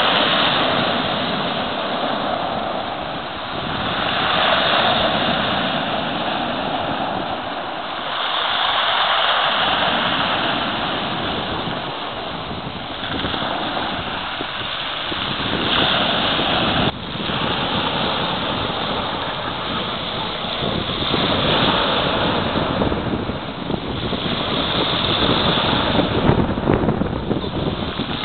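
Black Sea surf: rough waves breaking and washing in, swelling and fading every four to six seconds, with wind buffeting the microphone.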